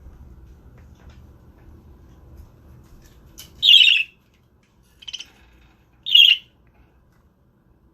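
Pet budgerigars calling: three short, sharp chirps, the first about three and a half seconds in and the others about a second apart, over a faint low rumble.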